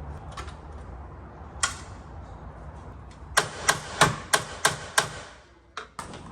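Hammer blows: one strike, then a quick run of six about three a second, then two lighter knocks near the end.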